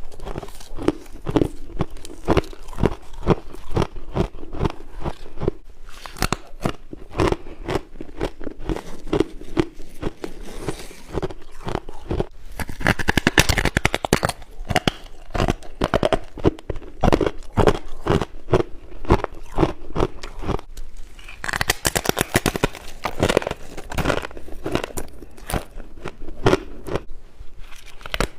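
Frost ice being bitten and chewed up close: a steady run of rapid, sharp crunches, with thicker crackling stretches about halfway through and again near the end.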